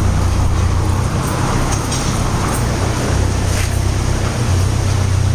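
A large engine running steadily with a low drone, with a few faint clicks over it.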